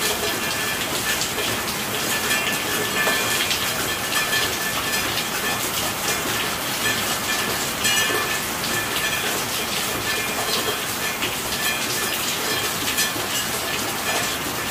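Steady rainfall: a dense, even hiss with many distinct drop hits crackling through it.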